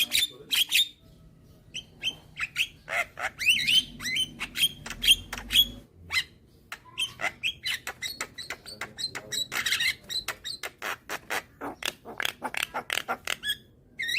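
Young Javan myna (jalak kebo) calling: a long, fast run of short harsh clicks and squawks, with a few gliding whistled notes early on and a rougher, raspy stretch about ten seconds in.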